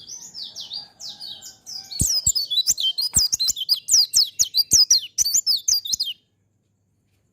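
A white-eye (pleci) singing a fast string of high, downward-sliding chirps. It gets louder about two seconds in, with sharp clicks among the notes, and breaks off abruptly about six seconds in.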